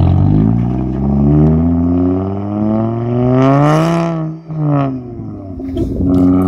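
Car engine accelerating hard, its revs climbing steadily for about four seconds, then cutting out briefly and falling away.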